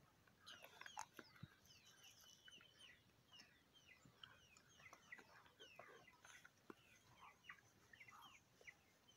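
Faint bird chirping: many short, quick falling notes repeating throughout.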